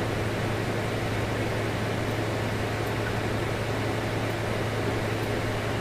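Steady hiss with a low, even hum underneath, unchanging throughout: background noise of the recording.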